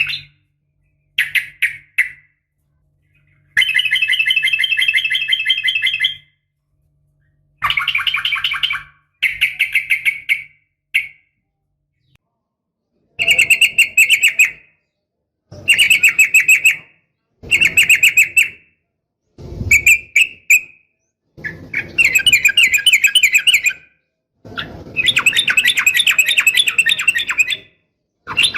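Yellow-vented bulbul (trucukan) singing in short bursts of rapid chattering, bubbling notes, about ten bursts broken by brief pauses.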